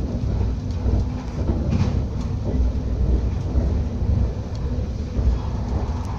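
A TER regional train running at speed, heard from inside the passenger car: a steady low rumble with a few faint clicks from the wheels on the track.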